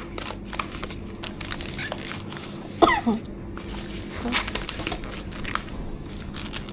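Plastic wrap and packaging crinkling and rustling in quick small clicks and crackles as food is handled, over a steady low hum. About three seconds in, one loud short squeak falls in pitch.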